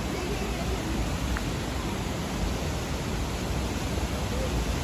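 Steady rushing of the water at Dudhsagar Falls, an even, unbroken noise.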